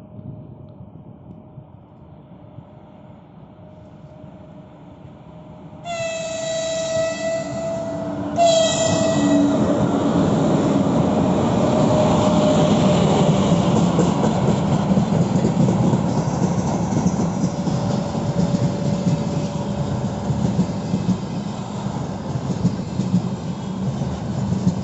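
3ES5K 'Ermak' electric freight locomotive approaching and sounding its horn in two blasts, about two seconds and then one second long, about six seconds in. The freight train then passes close by, rumbling steadily with wheel clickety-clack over the rail joints.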